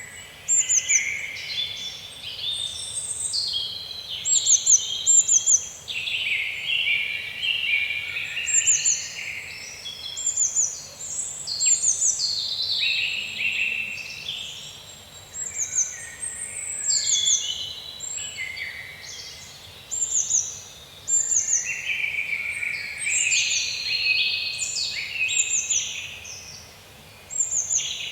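Several songbirds singing together in a forest chorus, with quick high falling notes in short runs of three or four over lower warbling phrases, against a faint steady background hiss.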